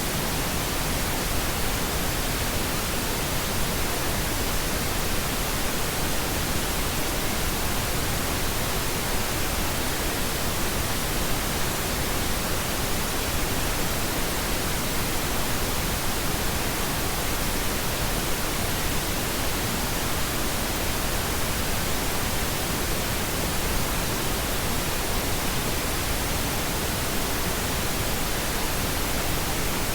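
Steady pink noise: an even, unchanging hiss spread across all pitches, with no events.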